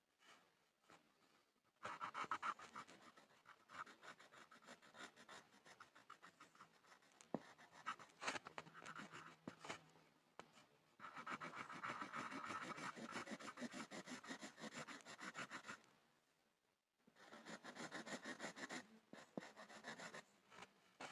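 Pencil scribbling on a board: quick, dense scratchy strokes that start about two seconds in, stop briefly near the end, then start again.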